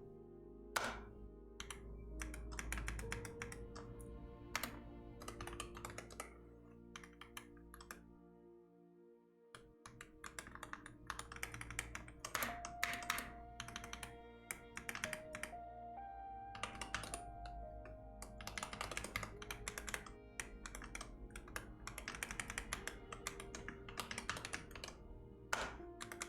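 Typing on a computer keyboard: quick runs of key clicks that pause for a couple of seconds about a third of the way in, then resume. Soft background music with held notes plays underneath.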